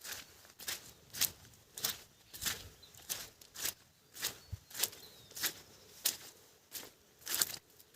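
Scattered hailstones striking a hard surface: sharp separate impacts, about two a second at uneven intervals.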